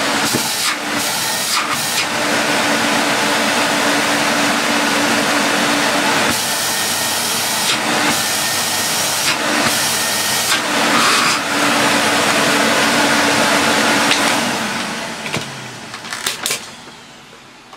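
Electrolux Z345 Automatic vacuum cleaner motor running, a steady hum under a loud rush of air that changes in tone a few times as the machine is worked. Near the end it is switched off and the motor winds down.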